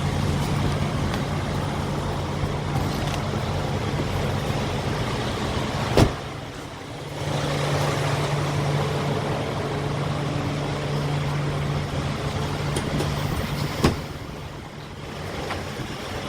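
A tractor-trailer's diesel engine idles with a steady low hum. Two sharp bangs, about six and fourteen seconds in, are the cab doors being shut as the driver and trainer climb out.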